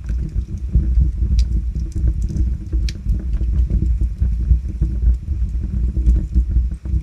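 Wood fire burning in a fireplace: a steady low rumble of flames with scattered sharp crackles and pops, two louder pops about one and a half and three seconds in.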